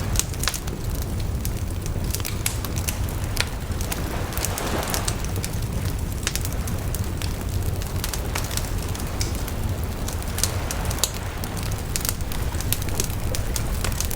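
Wood bonfire burning, with frequent sharp crackles and pops over a steady low rumble of the flames, and a soft rush of flame about five seconds in.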